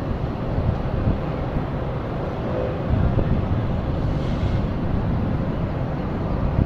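Low, steady rumble of a jet aircraft, mixed with wind buffeting the microphone, growing somewhat louder about three seconds in.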